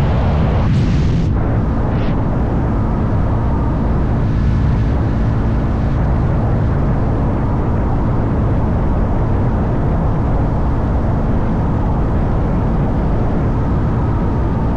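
Motorcycle engine running at a steady cruising speed, under a heavy low rush of wind noise. A few brief hissing sweeps come in the first couple of seconds.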